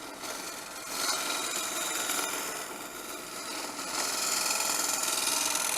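Turning tool cutting a spinning wooden workpiece on a wood lathe: a steady hissing scrape over the machine's hum, heavier in two longer passes, breaking off abruptly at the end.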